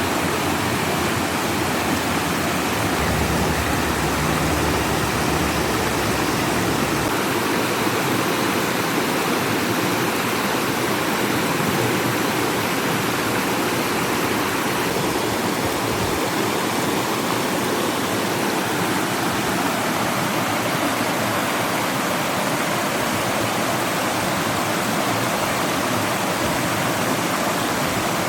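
Steady rush of flowing water, like a stream or small waterfall, running evenly throughout.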